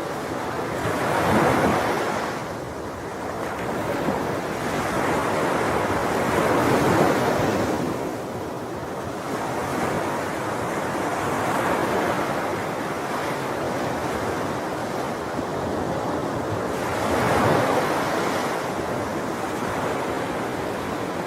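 Sea waves coming in and going out, an even rushing wash that swells and ebbs slowly, with louder surges about a second and a half in, around seven seconds, and again near the end.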